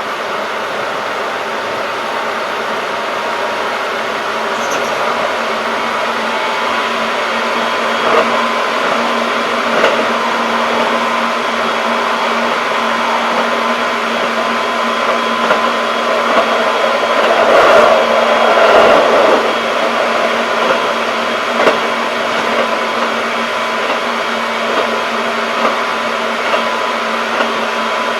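Keikyu 1500 series field-chopper electric train running at speed: a steady rumble of wheels and running gear with steady hum tones over it, sharp clicks every second or two, and a louder swell of noise a little past the middle.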